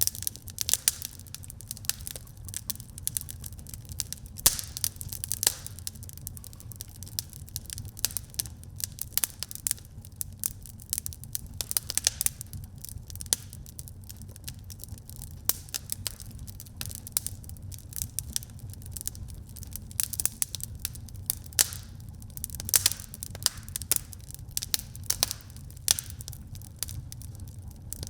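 Wood fire crackling in a fireplace: dense, irregular pops and snaps over a steady low rumble of the burning.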